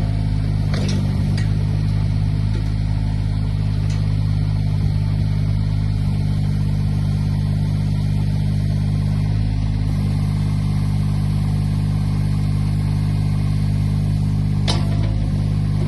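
Diesel engine of a JCB 8008 CT compact tracked excavator running at a steady idle, with a few short clicks about a second in and near the end.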